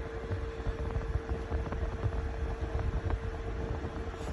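Portable air conditioner running on its fan: a steady hum over a low, uneven rumble. The compressor has not yet kicked in after the set temperature was lowered.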